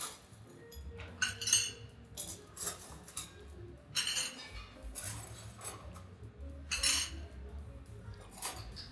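Cutlery clinking and clattering against plates and dishes several times, in short separate knocks.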